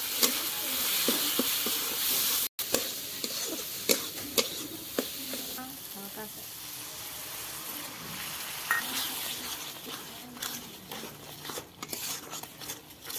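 Tomato-and-onion masala sizzling as it fries in a wok, with a flat metal spatula stirring and scraping it, giving many short clicks and scrapes against the pan over a steady hiss.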